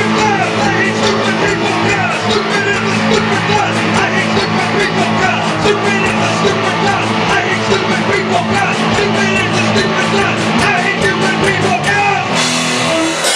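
Rock band playing fast, with guitars, rapid drumming and singing. About twelve seconds in, the song ends on a cymbal crash and a held chord.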